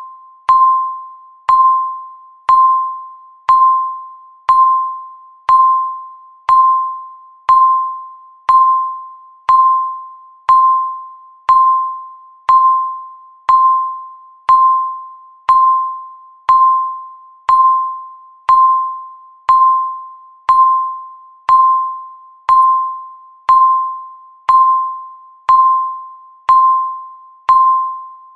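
Countdown timer beep repeating once a second, each a short, clear, mid-pitched tone that starts sharply and dies away, marking every second of the countdown.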